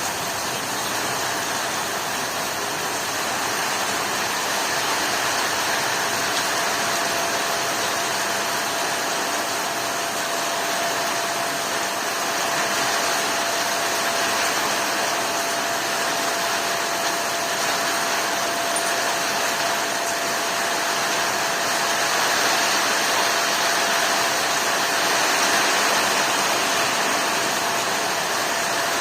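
Heavy rain falling steadily in a storm, an even downpour without claps or single drops standing out, with a faint steady tone underneath.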